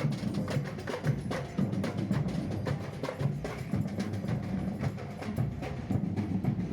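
Samba band drumming a fast, steady rhythm: deep bass drum beats under dense, sharp strikes of smaller drums and a wood-block-like percussion.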